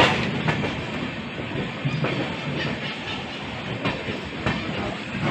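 Passenger train running along the track: a steady rumble with a few sharp clicks as the wheels pass over rail joints.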